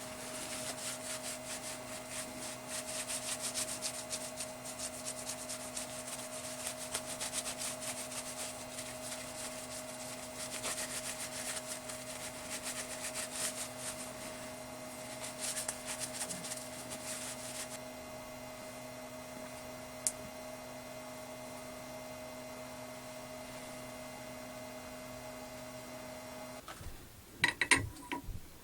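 Scroll saw running and cutting 3 mm brass plate: a fast, even rasp of blade strokes over a steady motor hum. The cutting stops about two-thirds of the way through while the motor keeps humming. Near the end the hum cuts off suddenly and a few sharp knocks follow.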